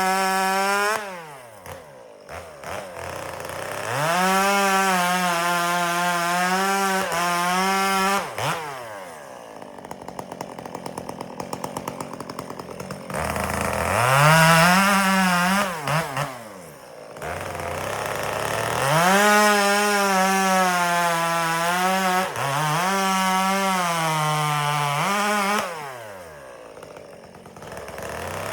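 Two-stroke chainsaw bucking firewood: it revs up and runs at full throttle through a cut, its pitch sagging a little under load, then drops back to idle between cuts, several times over.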